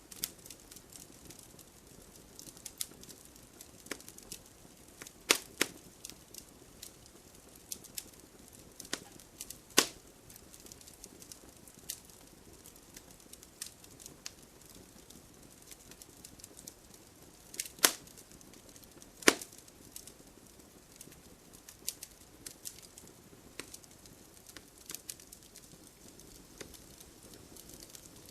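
Wood fire in a fireplace crackling, with irregular sharp pops over a faint hiss and a few louder snaps now and then.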